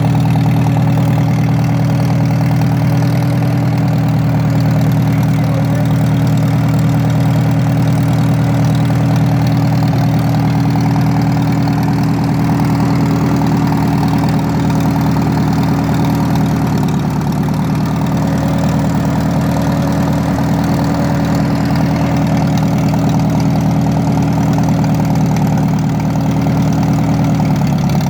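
1950 Farmall tractor engine idling steadily while it warms up after a cold start, its pitch dipping slightly near the end.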